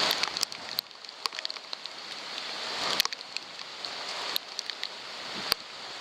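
Rain and gusting wind in a thunderstorm: a hiss that swells and fades, about three seconds between peaks, with many sharp ticks of raindrops striking close to the microphone.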